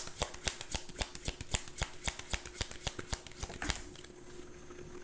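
A tarot deck being shuffled by hand: a quick, uneven run of card clicks and flutters that stops about three and a half seconds in.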